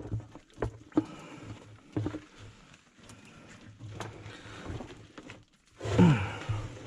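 Scattered knocks and clunks as the lid of a sewer ejector pump basin is pulled loose by a rope. About six seconds in comes a loud, short groan that falls steeply in pitch.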